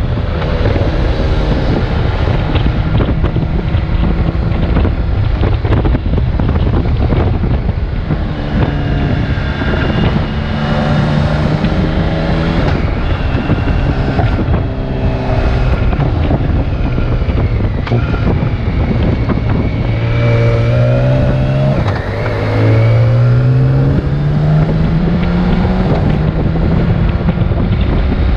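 BMW K1600GTL's inline-six engine running under way, its pitch falling and rising with the throttle and climbing steadily near the end as the bike accelerates, over constant wind rush on the microphone.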